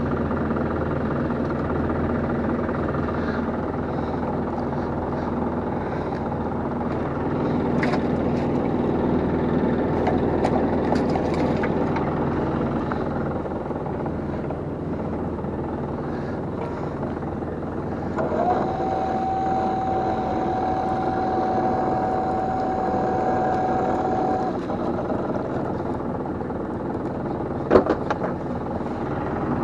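Small fishing boat's engine running steadily with a low hum. A steady whine sounds for about six seconds past the middle, and there are a few brief knocks near the end.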